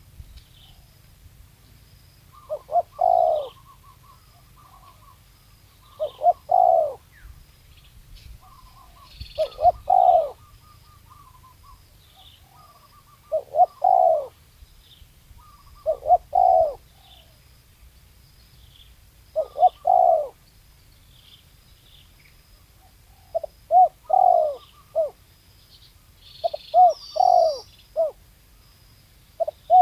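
Spotted dove cooing: a phrase of short notes ending in a longer coo, repeated about every three to four seconds, with the phrases coming closer together and in quicker runs near the end. Faint higher chirps from a small bird come in between, one louder near the end.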